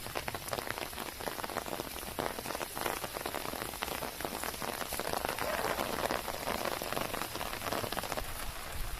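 Steady rain falling, a dense spatter of raindrops.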